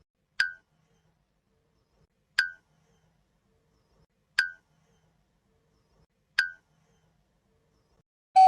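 Short, pitched click-like plinks repeated four times at an even pace, one every two seconds, each dying away quickly.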